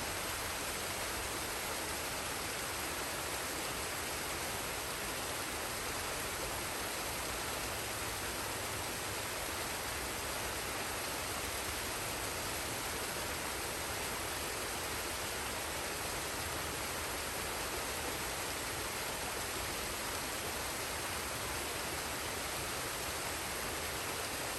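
Waterfall and stream water rushing in a steady, unbroken hiss, even throughout.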